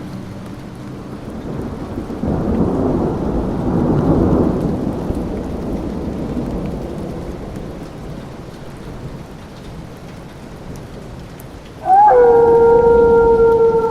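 Thunder rumbling over rain, swelling about two seconds in and slowly fading away. Near the end a loud howl breaks in suddenly, rising briefly and then held on one long, slowly falling note.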